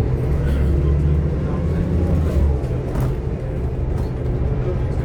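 Scania K230UB OmniLink bus's five-cylinder diesel engine heard from inside the saloon, pulling under load and then easing off about two and a half seconds in. A single short click comes about three seconds in.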